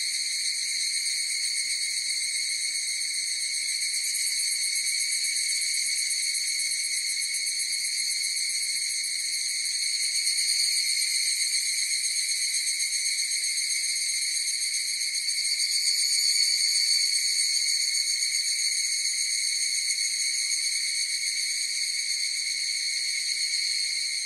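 A chorus of higurashi evening cicadas calling continuously, a steady shimmering high-pitched drone that swells slightly about ten seconds in and again a few seconds later.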